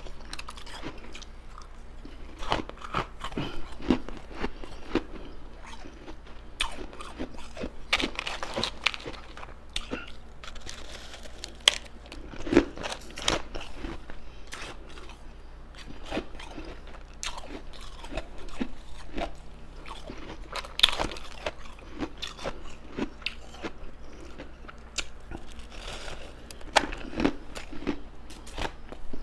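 Ice being bitten and chewed close to the microphone: a steady run of irregular crisp crunches, a few of them louder than the rest.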